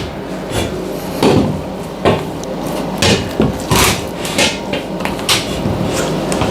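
Hammer blows struck at an uneven pace, about eight in all, over a steady low background hum.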